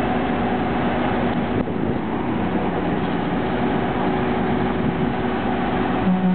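Slurry seal paving machine's engine running steadily under work, a continuous mechanical hum with a brief dip about a second and a half in and a stronger low tone near the end.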